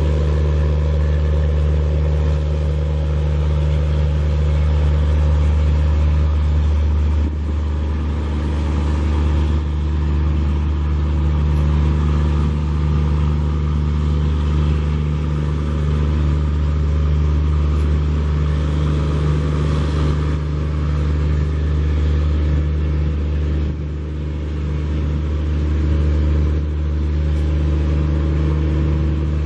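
Tejas Express train's machinery running with a steady, low drone at one constant pitch, slightly softer about 7 seconds in and again near the end.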